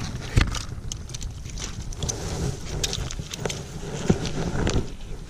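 Wind buffeting the microphone, with scattered clicks and knocks, the sharpest a little less than half a second in and about four seconds in.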